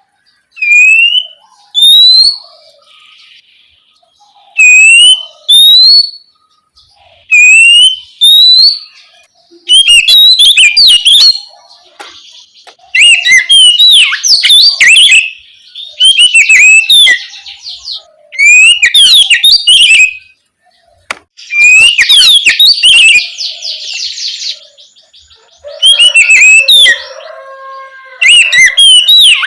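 Oriental magpie-robin singing loudly. It opens with paired clear whistles that rise in pitch, then runs into longer, rapid phrases of varied notes. This is the 'ngeplong' song used to provoke other magpie-robins into answering.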